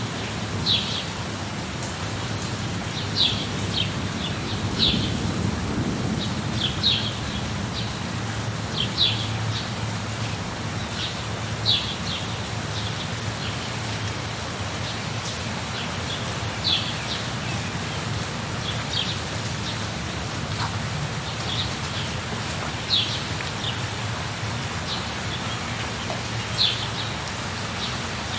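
Steady rain with a low rumble underneath. A bird gives short, high, falling chirps again and again at irregular intervals, a few seconds apart.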